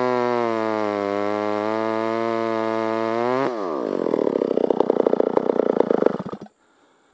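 Stihl 056 two-stroke chainsaw running steadily at high revs, its pitch sagging slightly at times, then dropping sharply as the throttle is released. It rattles and sputters at low revs for a few seconds and is switched off about six seconds in.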